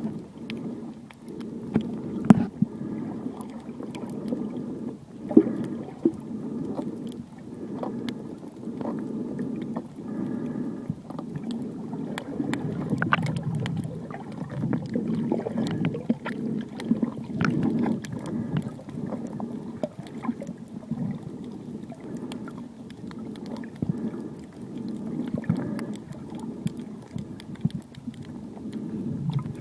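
Muffled underwater sound of sea water as heard through a submerged camera: a steady low rumble of moving water and gurgling, with scattered sharp clicks and ticks.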